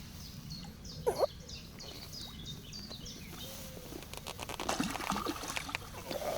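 A songbird singing a run of repeated high, falling notes, followed by a quick run of clicks near the end.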